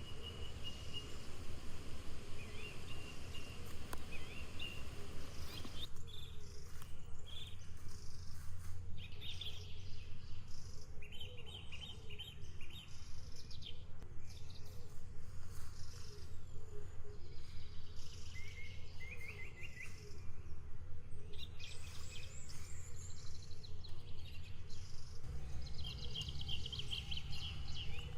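Small songbirds chirping and singing on and off over a steady, low rumble that pulses quickly and evenly.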